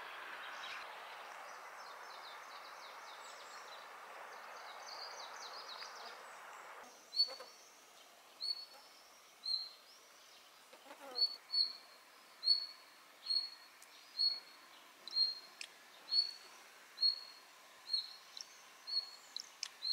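A bird calling a short high chirp over and over, about once a second, after some faint twittering. For the first seven or so seconds it sits over a steady rushing background noise that then drops away.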